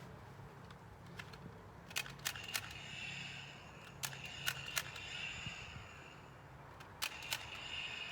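Sharp metallic clicks from a handgun in three quick groups, three clicks, then three, then two, a few seconds apart. They are too faint to be shots, so they are the pistol's action clicking rather than firing.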